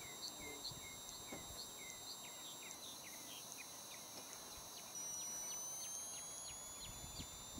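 Faint series of short high-pitched chirps, about three a second, over a quiet background.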